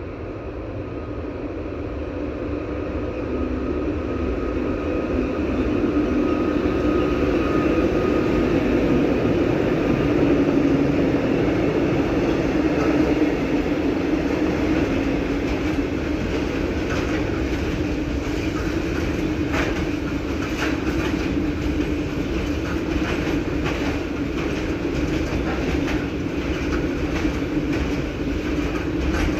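A train approaching and passing, getting louder over the first several seconds, then a steady run-by with wheels clicking irregularly over rail joints through the second half.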